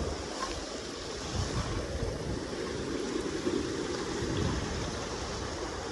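River water rushing steadily, with wind buffeting the microphone in low uneven rumbles.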